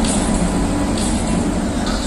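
WAP-7 electric locomotive and its coaches rolling past close by: a steady rumble of wheels on rail with a low hum, and two short sharp clicks, about a second in and near the end.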